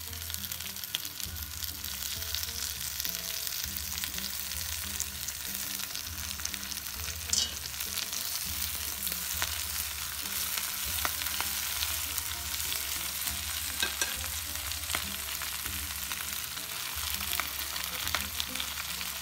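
Palak spinach frying in hot coconut oil in a non-stick wok: a steady sizzle, with the spatula clicking and scraping now and then as the leaves are stirred, over a low hum.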